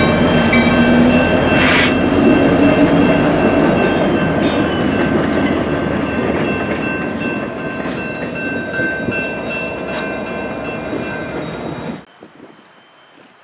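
Norfolk Southern GP60 diesel locomotive and caboose rolling over a street grade crossing: engine rumble and wheels clattering over the crossing, with a loud sharp clank about 2 s in and steady high ringing from the crossing signals. The train sound fades as it moves off, then cuts off suddenly near the end to a quiet background.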